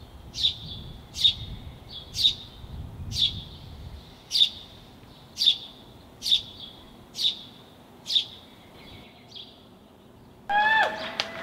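A songbird calling with short, sharp, downward-slurred chirps, about one a second. Near the end the chirping cuts off and louder street sound with a pitched tone comes in.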